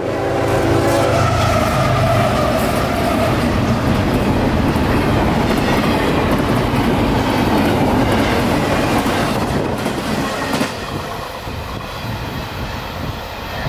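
CSX intermodal freight train passing close by. The diesel locomotive runs past, with a steady horn-like tone fading over the first few seconds, then the intermodal cars roll by with wheels clicking over the rail joints. It gets quieter a little before the end.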